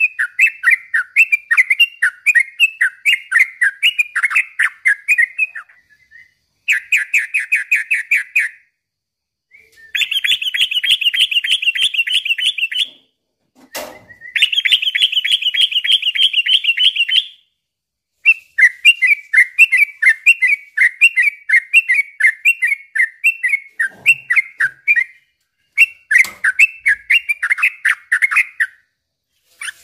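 Yellow-vented bulbul (trucukan) singing in long, rapid chattering runs of repeated notes, in bouts of a few seconds with brief pauses. Two bouts in the middle are faster, higher trills. A single click sounds about halfway through.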